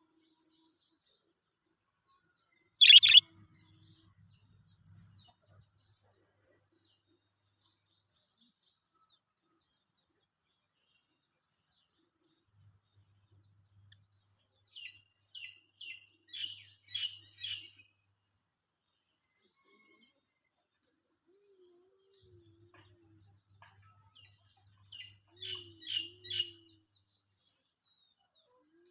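Budgerigars chirping: one loud, sharp call about three seconds in, soft scattered twitters, and two runs of quick chirps, one midway and one near the end.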